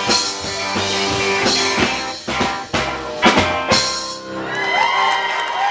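Live rock-and-roll band of electric guitar, bass, drums and piano playing the closing bars of a song, with a flurry of drum hits around the two-to-four-second mark. The last chord then rings out and fades.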